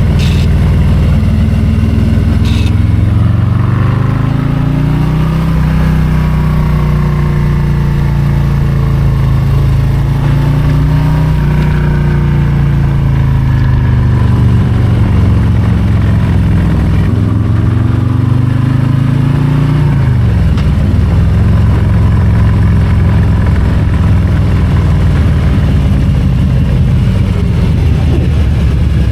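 Harley-Davidson Low Rider ST's Milwaukee-Eight 117 V-twin engine pulling the bike along, its pitch rising and falling with the throttle. The revs climb over the first few seconds, hold, dip and climb again, then drop sharply about twenty seconds in and settle lower.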